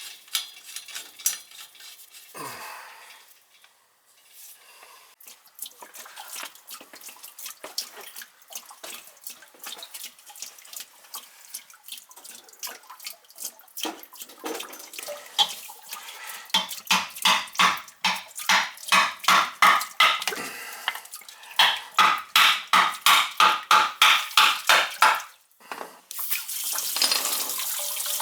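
Metal tools clinking and scraping on boiler piping, with a rhythmic run of strokes about two a second in the second half. Near the end this gives way to a steady rush of running water.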